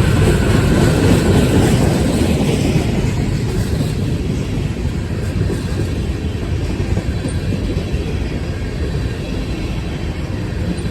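Freight train cars rolling past: a steady rumble of steel wheels on the rails, a little louder in the first few seconds and easing slightly after.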